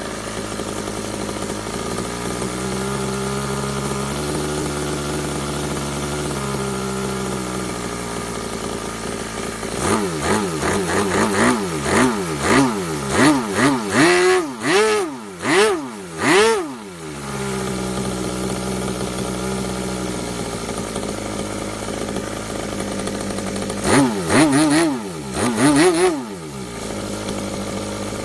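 RC model methanol glow engine on a test bench idling steadily. About ten seconds in it is revved in a quick series of blips, each rising and falling in pitch, then drops back to a steady idle; a few more short blips come near the end before it idles again.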